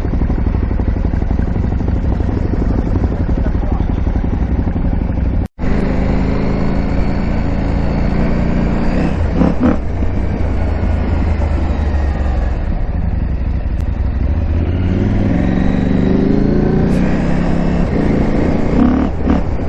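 KTM 890 Adventure R's parallel-twin engine running as the bike is ridden, the revs rising and falling in the second half. The sound breaks off for an instant about five and a half seconds in.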